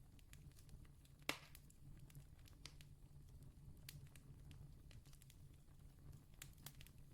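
Wood campfire crackling quietly with scattered sharp pops, one clearly louder pop about a second in, over a steady low rumble.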